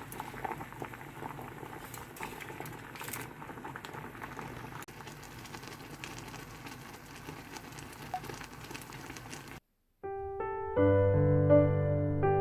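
A pot bubbling as it boils, a steady crackle of many small pops. It cuts off abruptly about ten seconds in, and gentle piano music follows.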